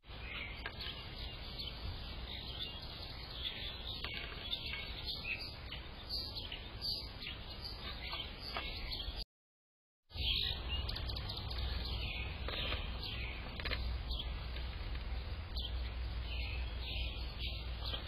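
Small birds chirping repeatedly in short high calls, over a steady low rumble. The sound cuts out completely for under a second about nine seconds in.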